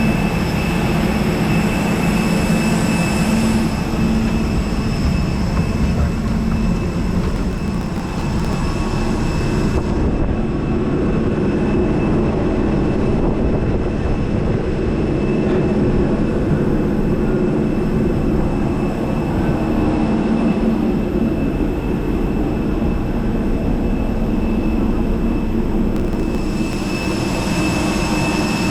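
Steady running noise of a moving vehicle: a low rumble with a few thin, high, steady whining tones over it. The sound shifts in character a few times.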